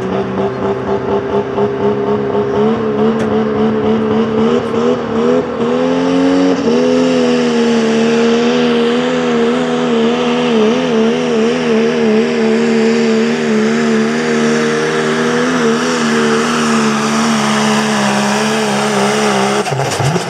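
High-horsepower pulling truck engine at full throttle during a pull, its pitch steps up about six seconds in, then wavers up and down under load, and falls away sharply near the end.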